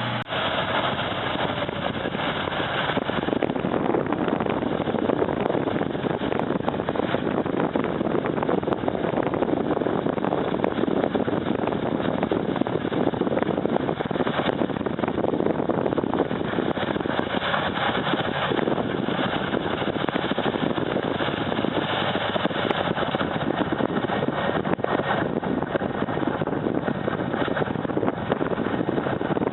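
Snow-clearing machine running steadily: a dense, even rushing noise with no clear pitch.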